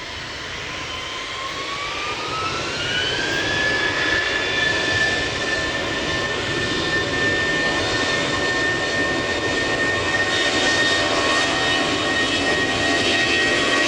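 Jet airliner engines spooling up. A whine rises in pitch over a few seconds and then holds steady, while the roar grows louder.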